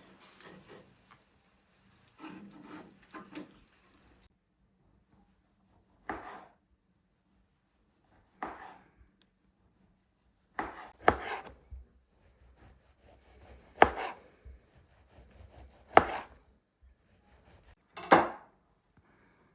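Chopping blows on wood, a separate strike every couple of seconds. The later strikes are sharp and loud, and the first few are softer.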